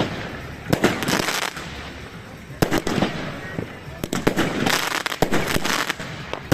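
Fireworks going off: a string of sharp bangs at irregular intervals, several followed by crackling trails.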